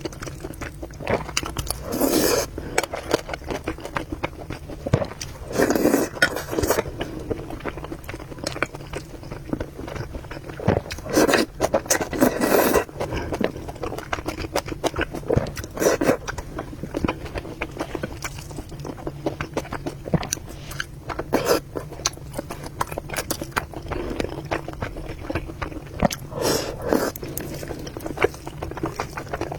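Close-miked eating: chewing and slurping of noodles, with sharp clicks of utensils, in irregular bursts.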